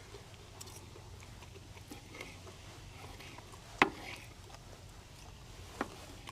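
Quiet eating and handling sounds at a meal, with two sharp clicks about two seconds apart, over a steady low hum.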